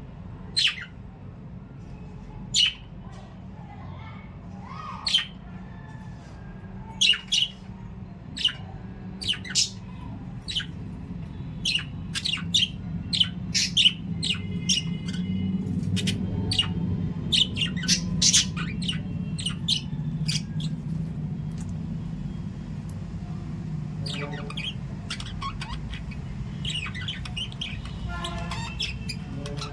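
Small pet parrots giving short, sharp squawks and chirps. The calls come singly at first and then thick and fast from about a third of the way in, over a low steady hum.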